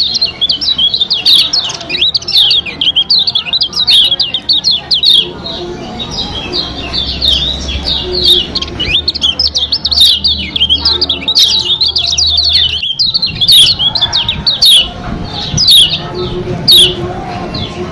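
White-eye (pleci, the Lombok kacial kuning) singing a fast, continuous, high twittering chatter of chirps, a lure recording used to prompt caged white-eyes to sing. A faint low hum lies under it from about a third of the way in to about two thirds.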